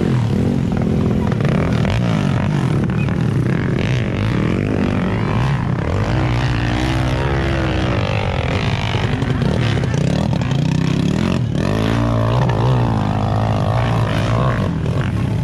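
Dirt bike engine revving up and down, its pitch climbing and falling again and again.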